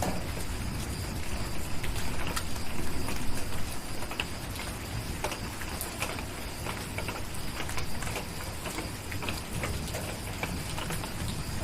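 Steady rain falling, with scattered sharp crackles and pops from a wood fire over a low rumbling background.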